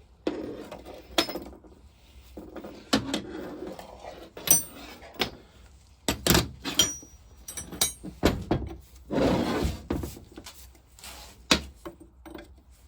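Metal engine parts and hand tools knocking and clinking on a workbench as a seized vaporiser is stripped, a series of separate knocks, some with a short metallic ring, and a rasping noise lasting about a second around nine seconds in.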